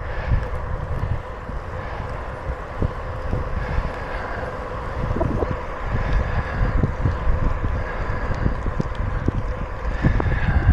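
Wind buffeting the microphone of a moving bicycle, with a steady low rumble and scattered short thumps from the tyres rolling over the trail surface.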